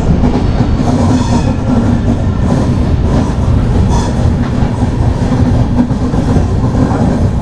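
Duronto Express sleeper-class coach running along the rails, heard from inside the coach: a loud, steady rumble and rattle of the wheels and carriage.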